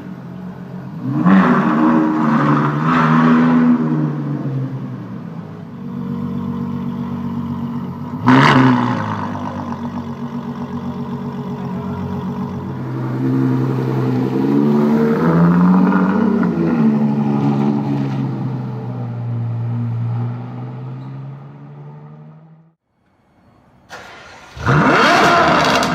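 Ferrari FF's V12 engine through a Novitec Rosso exhaust, idling and revving up and down several times, with one sharp blip about a third of the way in. Near the end it cuts out briefly, then comes back with a loud rising rev.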